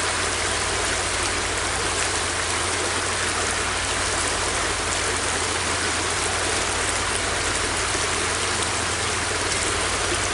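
River water flowing over rocks: a steady rushing and babbling that does not change.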